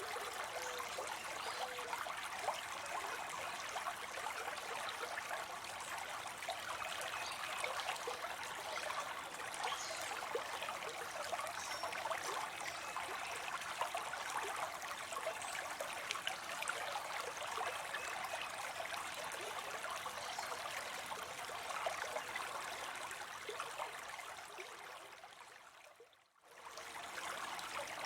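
Water spilling into a pond: a steady splashing and trickling, full of small droplet splashes. About two seconds before the end it briefly fades almost to nothing and then comes back.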